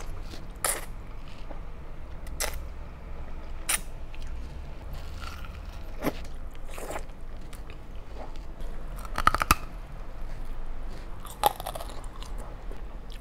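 Close-miked eating: chewing and crunching through crispy roast pork belly crackling and spicy instant noodles, with separate sharp crunches every second or two and a quick run of loud crunches about nine seconds in.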